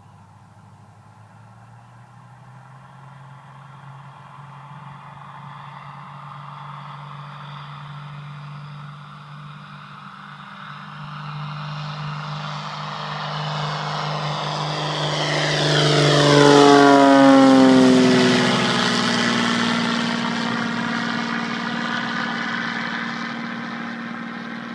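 Pitts S-2A biplane's four-cylinder Lycoming engine and propeller on its takeoff run, growing louder as it approaches, loudest about two-thirds of the way in, where the pitch drops as it passes, then fading as it climbs away.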